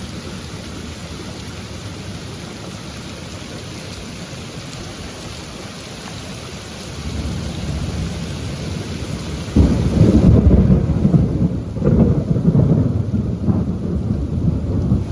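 Heavy rain falling steadily. It builds after about seven seconds, and near ten seconds a loud, low rumble of thunder breaks in suddenly and keeps rolling unevenly.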